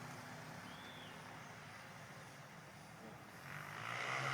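Motocross bike engine running at a distance, a low steady drone that grows louder in the last second.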